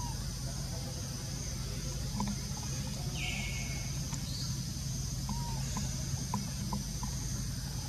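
Outdoor tree-canopy ambience: a steady low hum and a high, even hiss, with a few short bird chirps scattered through it and one longer sweeping call about three seconds in.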